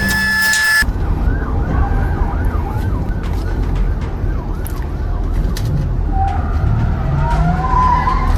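Emergency vehicle siren wailing in a quick rising-and-falling pattern over a loud, steady low rumble; near the end the tone changes to slower, longer glides. Background music plays for the first second before a sudden cut.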